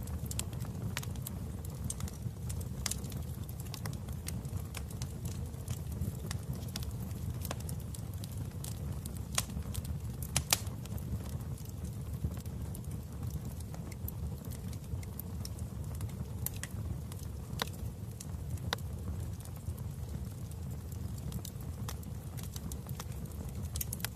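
Wood fire in a fireplace crackling: irregular sharp pops and snaps over a steady low rumble of the flames, with a couple of louder pops about ten seconds in.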